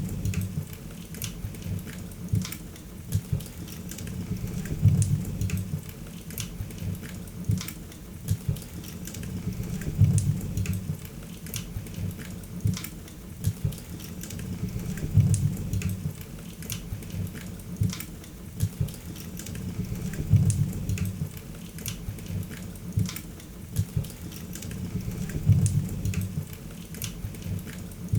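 Wood fire crackling, with scattered sharp pops and snaps over a low rumble of flames that swells about every five seconds.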